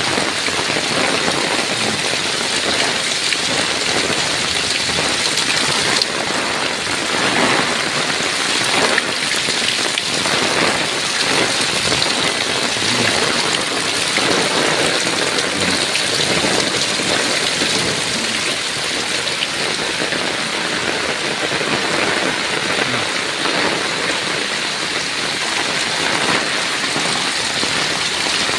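Heavy wind-driven rain pouring onto tile roofs and a paved village alley: a steady, dense hiss of falling and running water.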